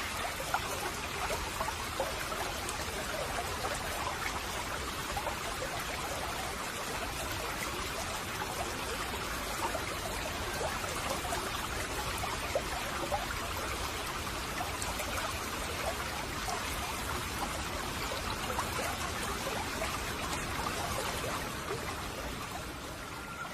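Water splashing steadily, a dense patter of many small drops and splashes that keeps an even level throughout.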